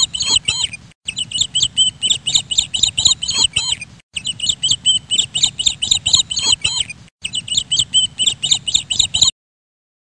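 Small birds chirping, a fast continuous run of short high chirps several a second, broken by brief dropouts about every three seconds. It cuts off suddenly near the end.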